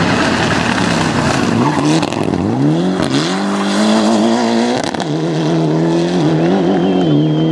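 Rally car engine at high revs. Its pitch drops sharply a couple of seconds in, then climbs again as the car accelerates, with tyre skidding noise under it.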